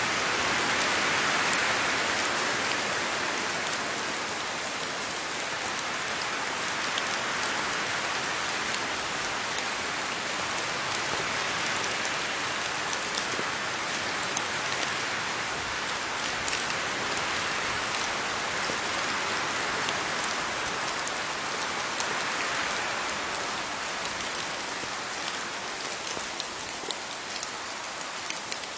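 Steady rain falling on leaves: a dense hiss with many small drop ticks scattered through it, swelling and easing slightly in strength.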